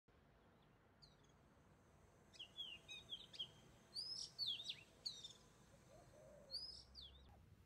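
Birds calling outdoors: a string of short, sharp chirps and whistled notes, starting about a second in and busiest in the middle, over a faint low background hum.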